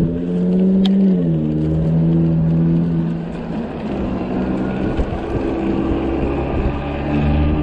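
Motor vehicle engine running at an intersection, a steady pitched hum over a low rumble that drops in pitch about a second in, then holds steady.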